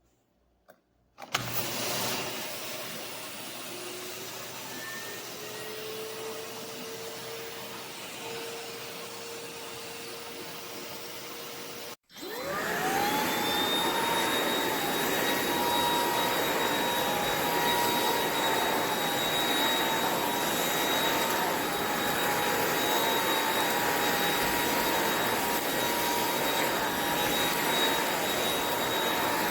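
Eureka RapidClean Pro cordless stick vacuum motor starting about a second in and running at a lower power setting, its whine rising as it spins up. About twelve seconds in it cuts out briefly, then starts again louder and higher-pitched at a higher setting and runs steadily.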